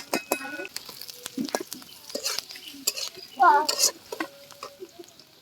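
A utensil stirring and scraping in a pan of frying food, with scattered clicks over a light sizzle. A child's voice cuts in briefly about two-thirds of the way through.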